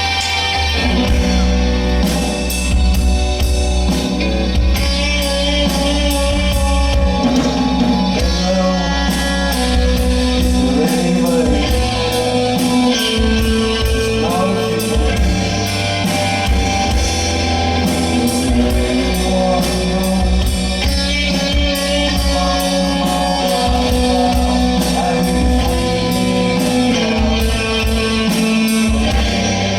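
A band playing rock music live, with singing, electric guitar, bass and drum kit at a steady beat.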